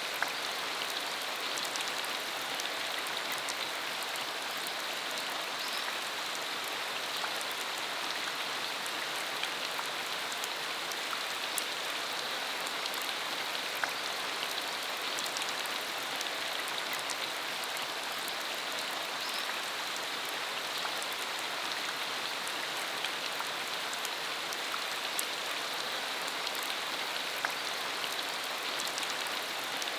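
Steady rain falling on a dirt country road: an even hiss with scattered single drops ticking through it.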